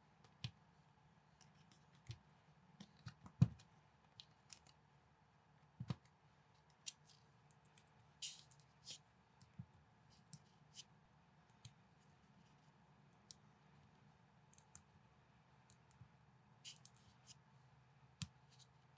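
Plastic building bricks being handled and snapped together: irregular sharp clicks and small clacks, a few louder snaps, and brief scraping rustles of pieces being picked up.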